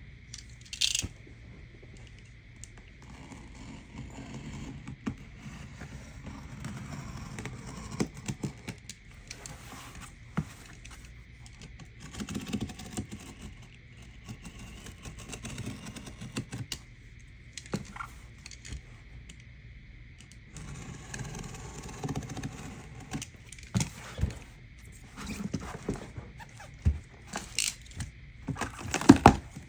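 Cardboard shoe box and its wrapping being handled and opened: scattered taps, knocks, scrapes and rustles, busiest near the end.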